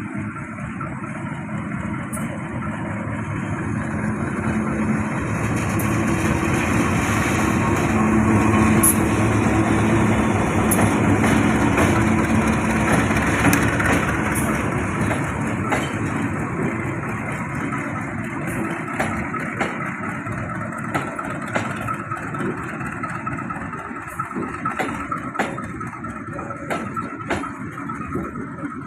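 A train running, growing louder to a peak about a third of the way in and then slowly fading, with sharp clicks in the later part.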